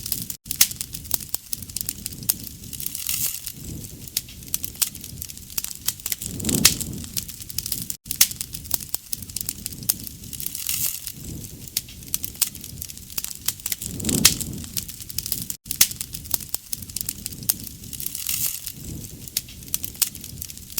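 Wood bonfire crackling and popping with many sharp snaps, and a low whooshing swell of the flames about every seven or eight seconds.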